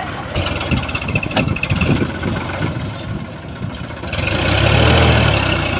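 Heavy diesel machinery engine running steadily, growing louder with a deeper rumble about four seconds in.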